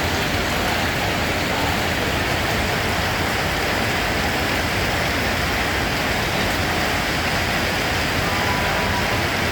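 Steady, even rain: a continuous hiss of falling rain with no separate drops or other events standing out.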